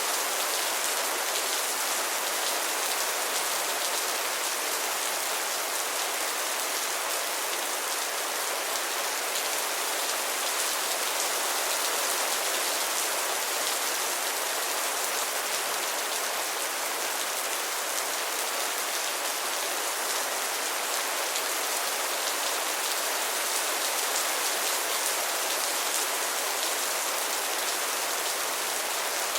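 Heavy rain falling steadily, an even hiss of many drops with no pauses or single hits standing out.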